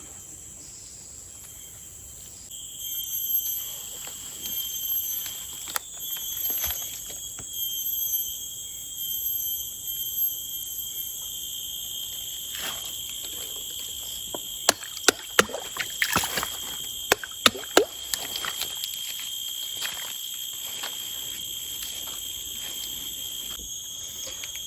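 Forest insects trilling steadily at several high pitches, the highest one pulsing on and off, with a lower trill joining a couple of seconds in. Brief rustling and handling noises come and go, with a run of sharp clicks toward the middle.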